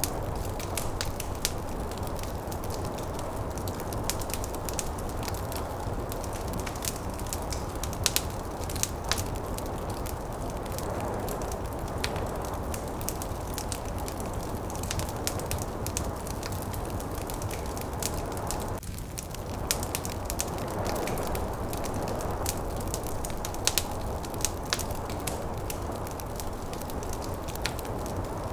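Wood fire crackling with irregular sharp pops, over a steady low rush of snowstorm wind. The wind briefly dips about two-thirds of the way through.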